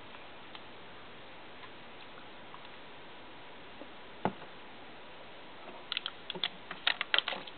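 Faint steady hiss with a single light click a little over four seconds in, then a quick run of light clicks and taps near the end.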